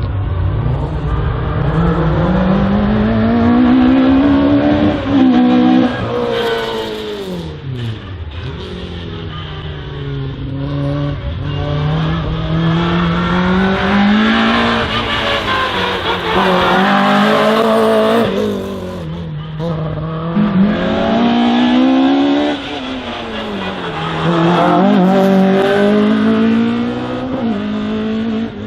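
A race car's engine being driven hard through a slalom course, revving up and easing off again and again, its pitch climbing through each burst and dropping sharply several times as it brakes for the turns.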